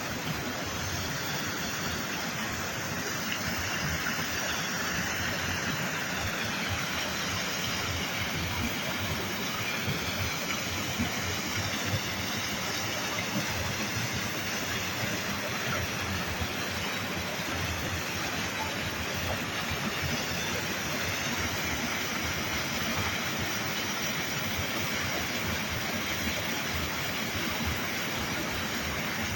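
Ain Asserdoun spring's water rushing in a steady, dense roar, its flow swollen with rainwater.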